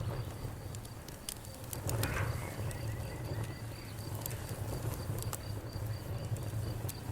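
Wood fire burning: a steady low rumble of flames with scattered sharp crackles and pops. A faint, high, evenly repeated chirping runs behind it.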